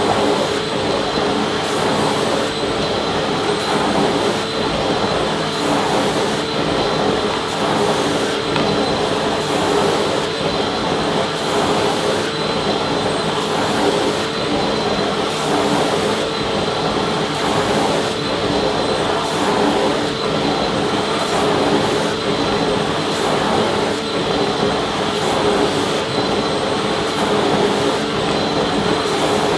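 Vacuum cleaner running steadily: a constant rush of air with a steady motor whine through it, unchanging in level.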